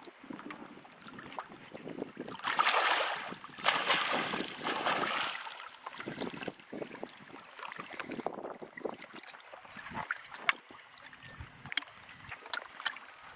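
Water lapping and splashing around a small fishing boat, with small knocks and clicks, and a louder stretch of splashing about three to five seconds in.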